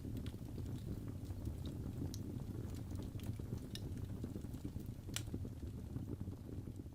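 Wood fire burning in a fireplace: a low steady rumble of flame with scattered crackles and pops, one sharper pop about five seconds in.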